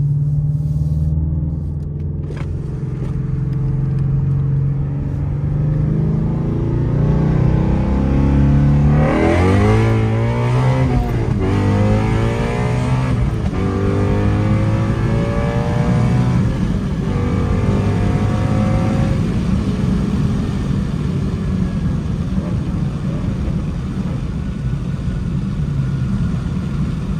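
Shelby GT350's 5.2-litre flat-plane-crank V8, heard from inside the cabin under hard acceleration through the gears. The note climbs and drops back at each quick upshift, then settles into a steady cruise.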